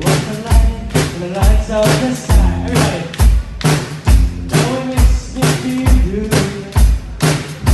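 Live band playing a song with a steady drum-kit beat, a loud kick drum about every second, and singing over it.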